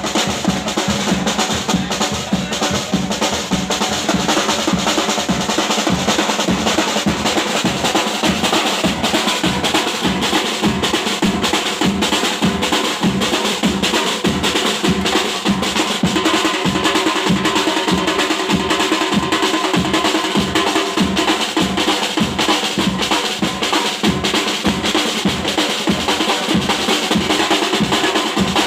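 Drums beating a steady rhythm of about two strokes a second, with a busy wash of noise over them.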